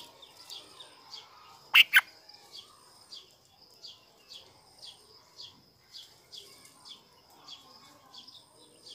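High, thin bird chirps repeating every half second or so, each a short downward slur. Two sharp clicks about two seconds in.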